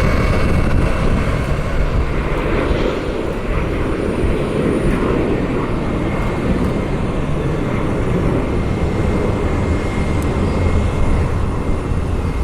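Jet airliner engines running, a steady loud rumble with a faint high whine.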